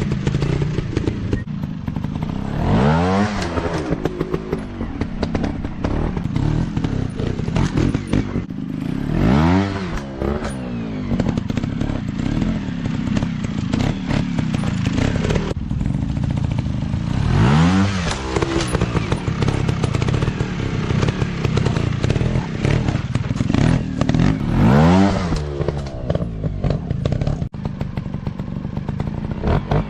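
Off-road dirt bike engines running continuously, revving up and back down in about five surges, with scattered knocks and clatter.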